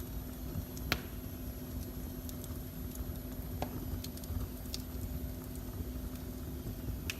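Wood fire crackling in a fireplace: sparse sharp pops and ticks, one louder pop about a second in, over a steady low rumble and a faint hum.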